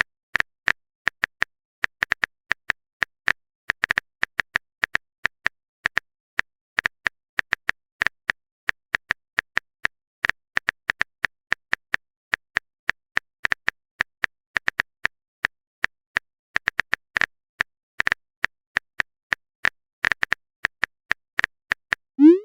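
Typing sound effect: a long run of quick, light keystroke clicks, a few a second at an uneven pace. Near the end a short rising pop, like a message-sent notification.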